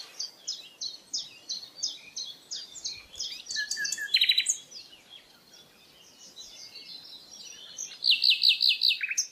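Birdsong: short, high chirps repeated about three times a second, fading in the middle, then a louder rapid series of chirps near the end.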